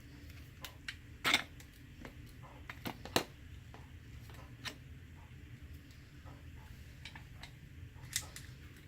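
Scattered light clicks and knocks of a coffee grinder and its packaging being handled, the loudest about a second in and about three seconds in, over a low steady hum.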